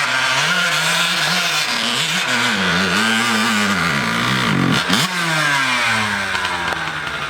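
Dirt bike engine revving in repeated throttle blips, its pitch rising and falling several times. A sharp rev comes about five seconds in, then the engine note falls away and settles lower near the end.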